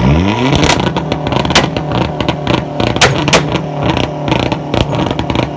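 Car engine revved up quickly and held against a two-step launch-control rev limiter, the exhaust popping and cracking with several sharp bangs.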